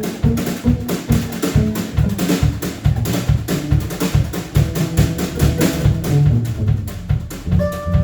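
Live band playing an instrumental passage: a steady, driving drum beat over a bass line.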